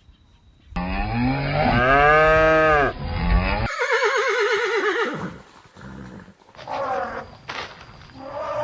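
A series of farm animal calls cut together: a long, drawn-out animal call, then, after an abrupt cut, a horse whinnying with a quavering, falling pitch, followed by two shorter calls.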